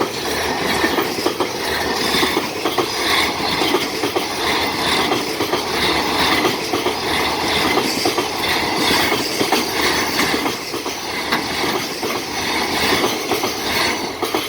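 Freight train wagons rolling steadily past, their wheels clattering rhythmically over the rail joints.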